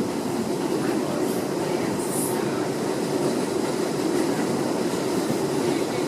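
Inside an R62A subway car of the 7 train running at speed: a steady rumble of wheels on rail and traction motors, with a brief high-pitched sound about two seconds in.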